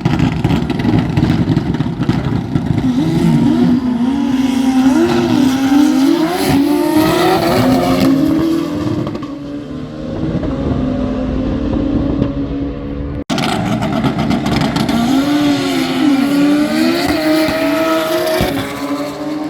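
Drag-racing engine revved up and down again and again, its pitch swooping, with tyre noise underneath; the sound breaks off abruptly about two-thirds through and similar revving carries on.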